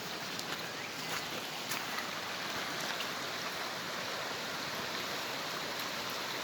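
Steady rush of flowing creek water, with a few faint clicks in the first two seconds.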